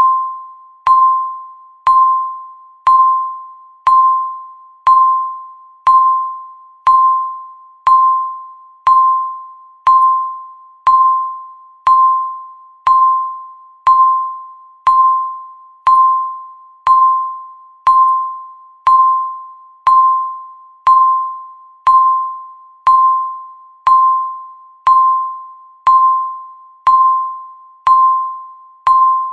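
Countdown timer beeping once every second: a single electronic chime-like tone that starts sharply and fades away before the next, keeping an even pulse throughout.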